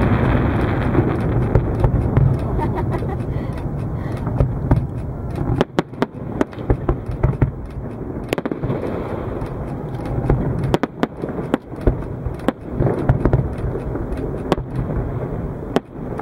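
Fireworks display: aerial shells bursting. For about the first five seconds the booms overlap into a dense continuous rumble, then separate sharp bangs follow in quick irregular succession.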